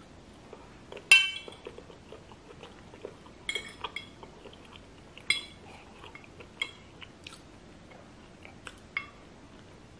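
Metal fork clinking against a dish as food is picked up, with soft chewing between. The loudest clink comes about a second in, and several quieter ones are scattered through the rest.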